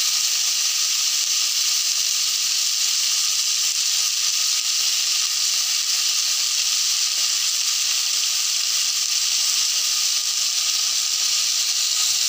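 Steady sizzling of green chillies, tomatoes and coriander leaves frying in hot oil in a steel kadai.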